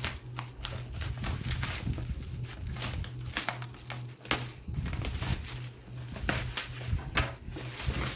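Packaging being handled while a box is unboxed: irregular crinkling, rustling and light knocks of cardboard and plastic wrap, over a steady low hum.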